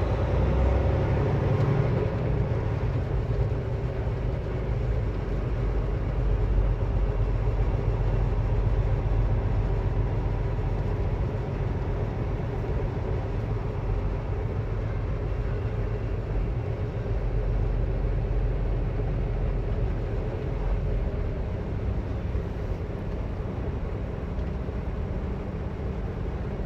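Semi-truck diesel engine running while the rig creeps along at low speed: a steady low drone with no sharp events.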